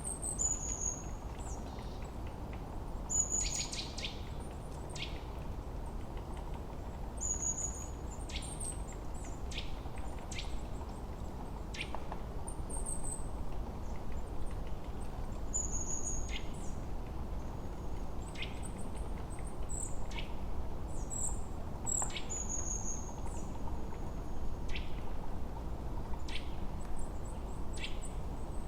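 Forest birds calling: short, high whistled notes and sharp chips repeating every second or two, over a steady low background hiss.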